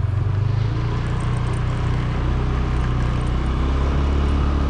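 Motor vehicle engine running steadily with a loud low hum that shifts in pitch a couple of times, as if changing speed.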